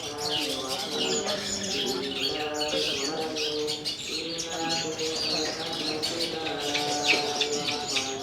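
Several long-tailed shrikes (cendet) singing at once: a dense, continuous run of rapid, sharp chirps and twitters, with a lower layer of held tones beneath.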